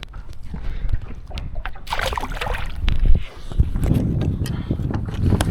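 Wind buffeting the microphone in gusts, with a brief rush of noise about two seconds in and a few short knocks.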